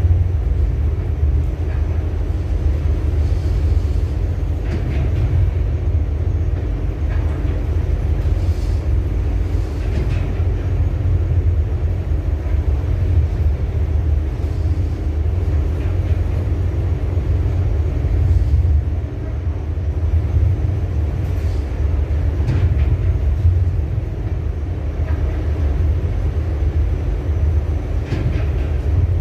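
Steady low rumble of a ship underway, its engine droning continuously, with a few faint knocks.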